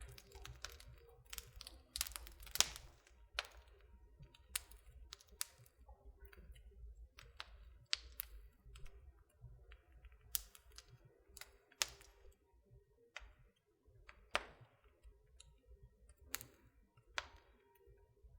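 Wood fire in a fireplace crackling: irregular sharp pops and snaps, a few louder than the rest, over a faint low rumble.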